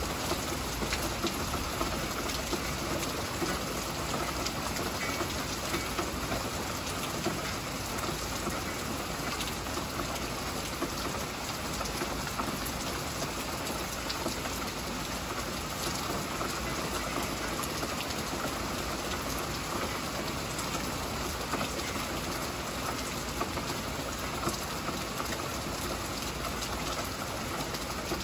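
Heavy rain falling steadily, a dense even hiss dotted with the sharp ticks of close drops striking a surface.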